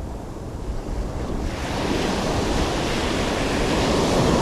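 Small ocean waves breaking and washing up the sand, the surf hiss swelling about a second and a half in and growing louder, over a low rumble of wind on the microphone.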